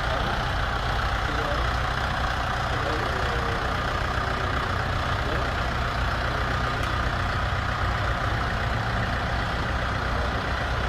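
Kubota M7040 tractor's four-cylinder diesel engine running steadily at low revs.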